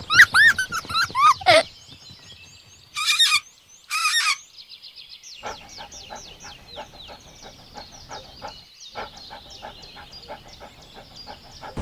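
Pet birds calling: a string of loud, arching calls, then two short harsh calls, then a fast run of small, quick chirps that goes on to the end.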